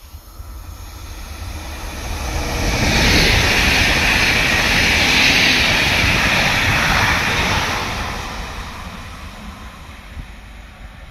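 PKP Intercity electric multiple unit passing through at speed: the rush of wheels on rails and air swells over about three seconds, holds loud for several seconds, then fades as the train pulls away.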